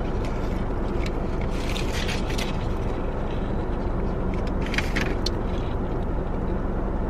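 Steady low hum inside a car, with a few short crinkling, crackling bits of eating and food wrappers about two seconds in and again near five seconds.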